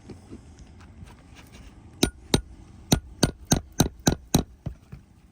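A shingle hammer striking a nail puller in quick succession, about eight sharp metal strikes starting about two seconds in, to work a roofing nail out from under a shingle.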